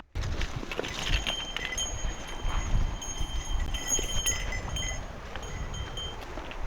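A small metal bell jingling repeatedly, its high ringing tones coming and going, over a rumble of wind on the microphone.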